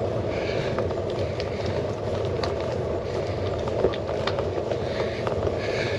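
Steady rumble of a bicycle being ridden, heard through a GoPro mounted on the handlebars, with scattered small clicks and rattles.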